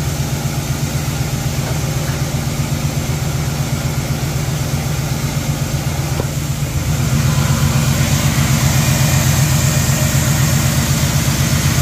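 1979 Chevrolet Caprice engine idling steadily while it warms up, with the block at about 161°F. It grows louder about seven seconds in.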